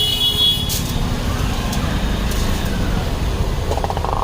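Road traffic going past with engines running, with a brief high-pitched vehicle horn right at the beginning.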